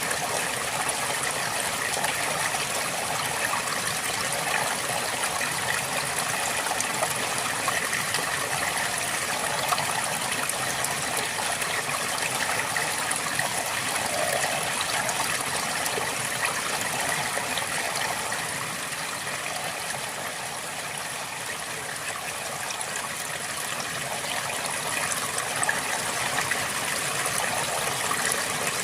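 River water flowing steadily over stones, a continuous rushing and trickling that eases slightly about two-thirds of the way through.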